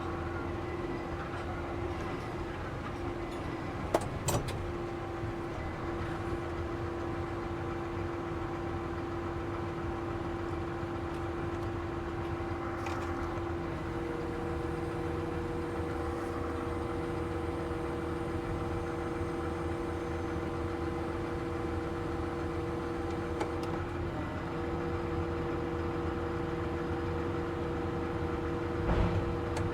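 New Holland T7 315 tractor's six-cylinder engine running at a steady speed, with a constant whine over the drone and a second tone joining about halfway through. There are a couple of sharp clicks about four seconds in and a brief knock near the end.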